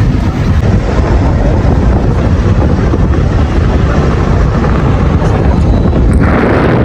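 Steady loud rumble of travel in a moving vehicle, with wind buffeting the microphone; a hissing rush joins near the end.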